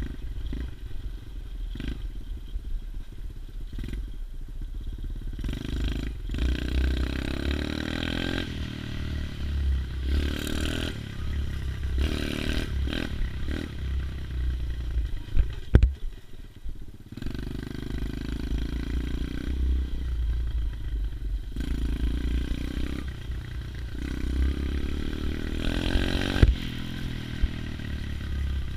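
A 110cc pit bike's four-stroke single-cylinder engine running while ridden, its revs rising and falling again and again, with clattering from the bike. A single sharp knock comes about halfway through.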